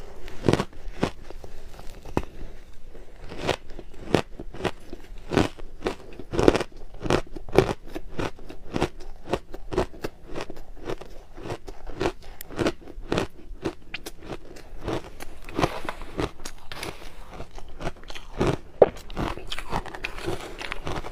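A person biting and chewing crushed ice close to the microphone: many sharp, irregular crunches, several a second.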